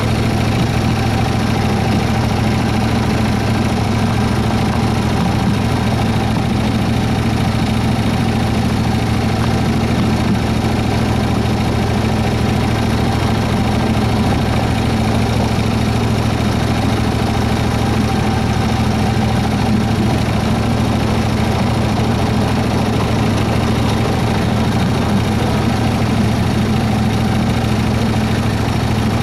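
Engine of a 7¼-inch gauge Baldwin S-12 model locomotive running at a steady, low speed while it is driven along the line, a constant hum that holds one pitch.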